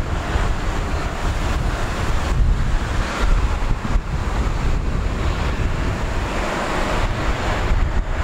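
Boeing 767-300's General Electric CF6 turbofan engines running with a steady jet rush, and a faint high whine above it. Wind is buffeting the microphone with a gusty rumble.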